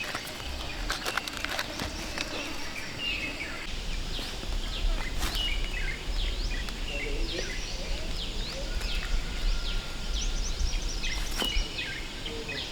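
Many small birds chirping, a steady run of short, downward-sweeping calls, with a low rumble underneath and a few sharp clicks.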